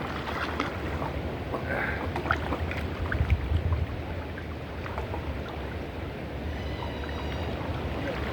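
Swimming-pool water sloshing and lapping around someone in the water, with small splashes that are busiest about two to three and a half seconds in, over a low rumble.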